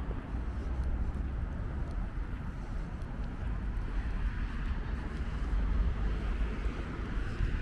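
Street traffic running steadily, with wind rumbling on the microphone.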